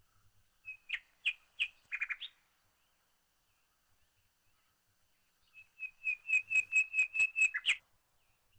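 A bird calling: a few short chirps in the first couple of seconds, then a fast, even run of about a dozen repeated notes, about five a second, that stops abruptly near the end.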